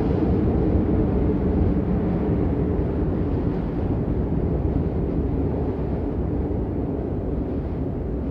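Steady rain noise, a dense, deep rushing with little hiss on top.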